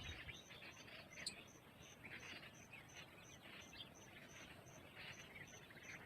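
Faint outdoor ambience: an insect chirping steadily, about three pulses a second, with scattered faint bird chirps and a single short click about a second in.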